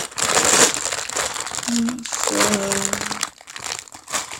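Plastic bag of Lego pieces crinkling as it is handled and opened, irregular and fairly loud, with a brief voice in the middle.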